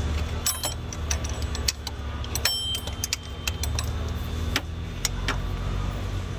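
Scattered light metallic clicks and scrapes of a hose pick working a stuck coolant hose loose from its fitting, over a steady low hum.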